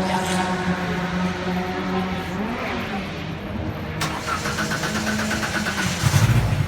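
Small race car's engine running at idle with a steady hum. A louder, rougher stretch starts about four seconds in, and the engine is blipped to higher revs near the end.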